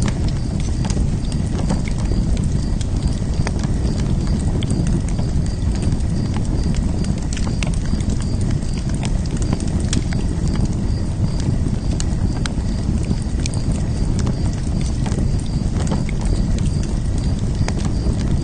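Fire burning in a fire pit: a steady low rumble of flames with frequent, irregular sharp crackles and pops.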